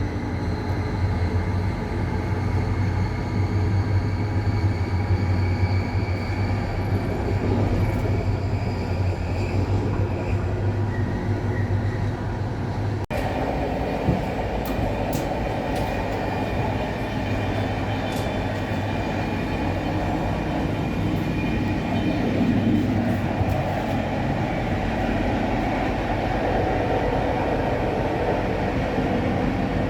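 Intercity passenger train running on the rails, a steady rumble with a faint whine rising in pitch over the first ten seconds. About thirteen seconds in the sound changes abruptly, then continues with scattered light clicks.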